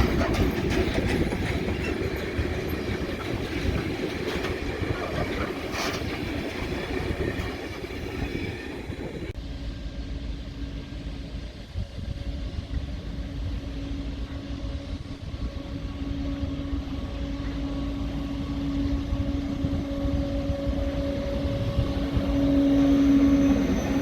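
Train running through the station with a broad rumble. About nine seconds in this changes abruptly to a steady low electric hum from a train, which swells louder near the end.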